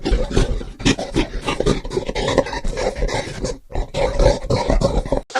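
Gorilla calling: a rapid run of short, rough grunts and barks that cuts off suddenly near the end.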